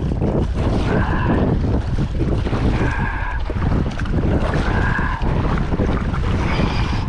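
Strong wind buffeting the microphone, a heavy, rough rumble, with water lapping. A short higher-pitched tone comes back about every two seconds.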